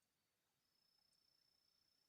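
Near silence, with a faint steady high-pitched insect trill, typical of a cricket, starting about half a second in.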